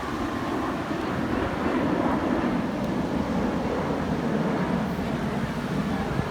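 Steady outdoor noise: wind on the microphone with a surf-like wash, swelling a little about two seconds in.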